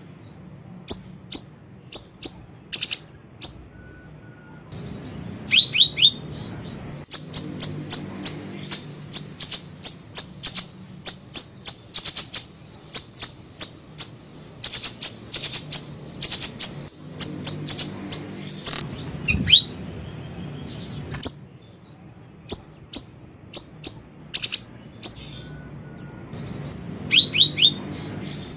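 Siri-siri bird song: sharp, high chirps given in quick runs of several per second, broken by short pauses, with a few lower falling notes, over a faint low background hum.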